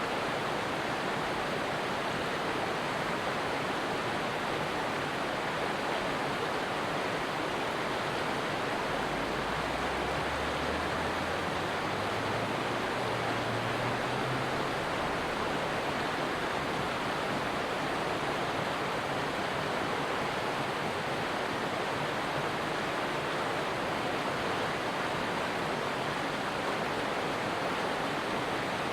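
Stream water rushing in a steady, even hiss. A faint low hum rises in pitch for a few seconds near the middle.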